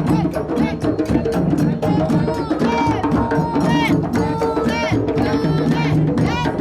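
Parade drum ensemble playing a fast, dense rhythm, with a group of voices singing over it.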